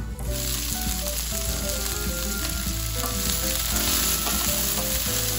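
Cauliflower, bell peppers and onions sizzling in oil in a non-stick frying pan, stirred with a spatula, with soft background music underneath.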